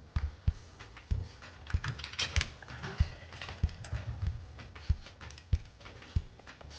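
Irregular light clicks and taps with soft thuds, about two a second.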